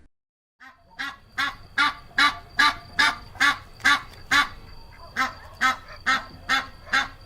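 Geese honking: a run of short, evenly repeated honks, about two or three a second, beginning just under a second in.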